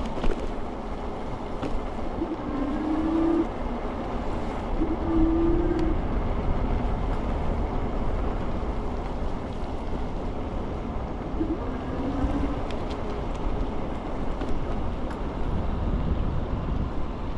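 Riding noise of an iKingi S6 Pro electric scooter in motion: steady wind rush on the microphone and rolling road rumble. A short steady hum sounds three or four times, each lasting about a second.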